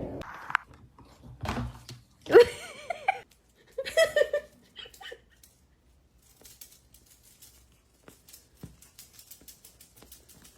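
A cat meowing: one long wavering meow about two seconds in and a shorter one a second later, followed by a run of faint rapid clicks.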